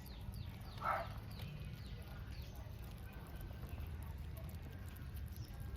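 British Shorthair cats eating wet pate: small licking and smacking ticks, with one brief louder sound about a second in, over a steady low hum.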